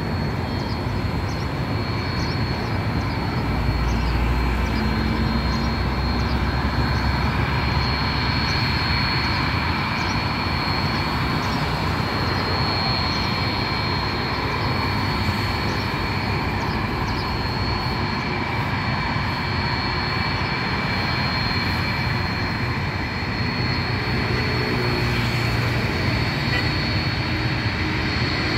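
A steady engine drone with a constant high-pitched whine.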